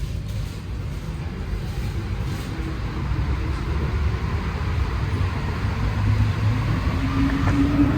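Alstom NS-16 rubber-tyred metro train heard from inside the car as it accelerates away from a station: running rumble growing steadily louder, with a rising traction-motor whine coming in near the end.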